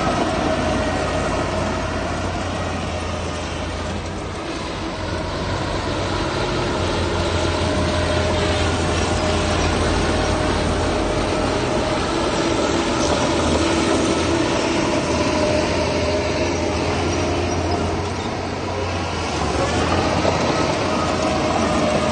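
Heavy diesel earthmoving machinery running steadily, a deep engine rumble with a whining tone on top that eases off briefly twice.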